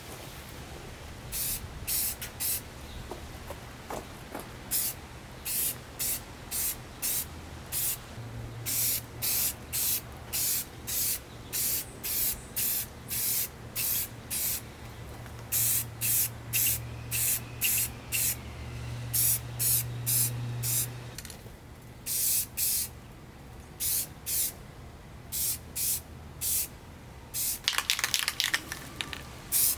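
Aerosol spray paint can sprayed in many short bursts, about one a second, with a faint low hum underneath.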